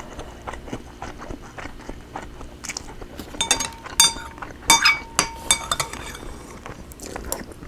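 Someone chewing a mouthful of pan-fried cod, with a run of sharp clinks of utensils against a dish about halfway through, some ringing briefly.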